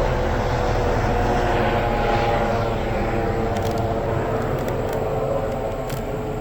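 Helicopter flying over, a steady engine and rotor drone with a held pitch that slowly fades as it moves away.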